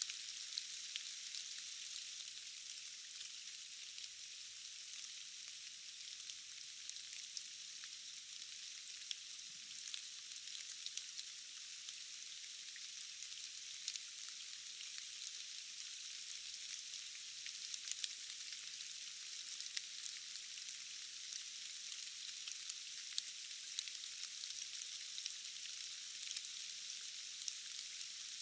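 Steady rain falling, a thin, high hiss with no low rumble, dotted with many small ticks of individual drops.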